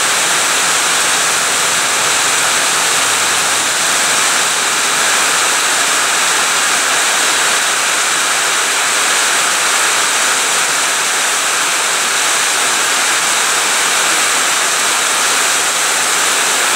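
Heavy rain falling, a loud, steady hiss of water.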